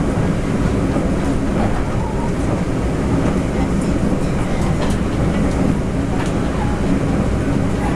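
Interior running noise of a Taroko Express TEMU1000 tilting electric multiple unit at speed, heard inside the passenger car: a steady low rumble of wheels on rail with a few faint clicks.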